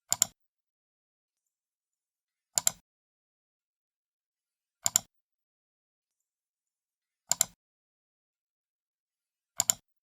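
Computer mouse left button clicked five times, about every two and a half seconds, each a quick double snap of the button pressing down and springing back.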